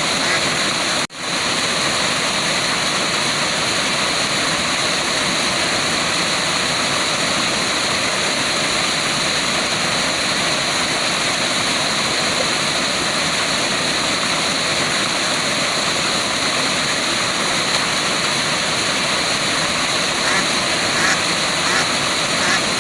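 Waterfall: steady rushing water that cuts out for a split second about a second in, then resumes unchanged.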